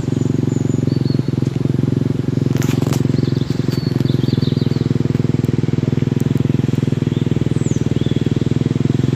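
A steady, loud engine drone with a fast, even pulse, from an engine running close by. A few short bird chirps sound over it in the middle.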